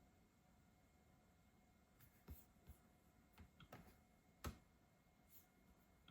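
Faint, scattered clicks of a computer being operated by hand. They start about two seconds in, and the sharpest comes a little after four seconds.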